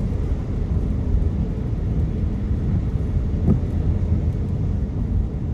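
Steady low road rumble of a moving car heard from inside the cabin, with a faint brief sound about three and a half seconds in.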